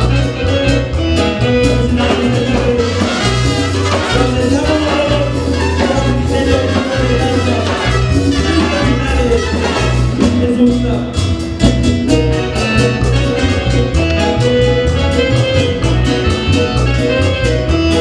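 Salsa-style Latin band music with a steady beat, dense percussion and horns.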